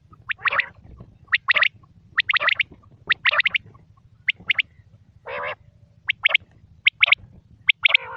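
Quail calling: short, sharp notes in quick pairs and triplets about once a second, with a few longer, harsher calls in between.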